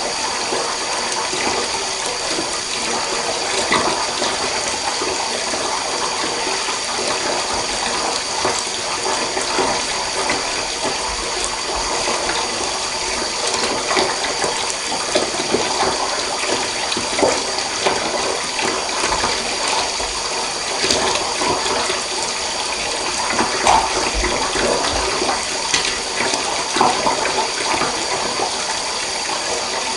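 Water running from a tap into a bath: a steady, unbroken rush with small splashes and plinks scattered through it.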